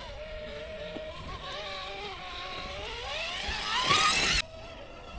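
RC rock crawler's electric motor and drivetrain whining at low speed, then revving up with a rising whine and getting louder before cutting off suddenly about four and a half seconds in.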